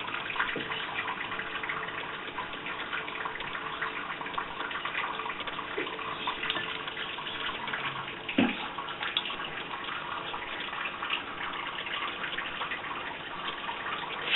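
Steady rushing of water running from a tap, with a few brief faint sounds over it, the clearest about eight seconds in.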